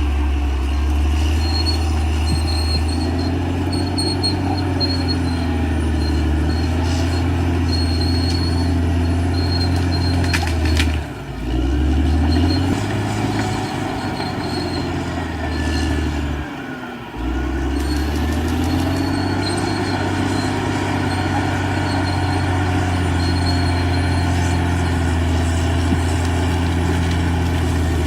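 Caterpillar D6R XL crawler dozer's diesel engine running steadily under load, its engine speed sagging and recovering twice, about eleven and seventeen seconds in.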